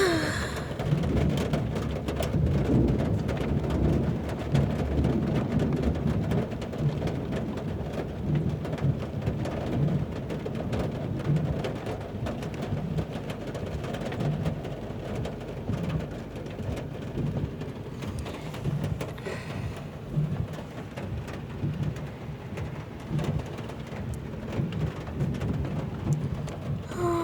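Heavy thunderstorm rain pounding steadily on a car's roof and windows, heard from inside the cabin as a dense low drumming with a patter of countless drop impacts.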